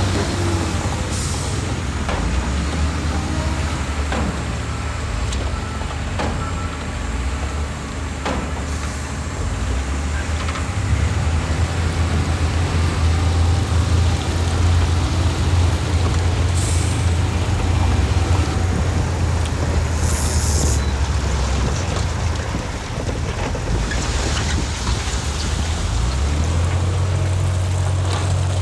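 Heavy diesel engine of earthmoving machinery running steadily under load, growing louder for about ten seconds in the middle. Short hisses of air come three times.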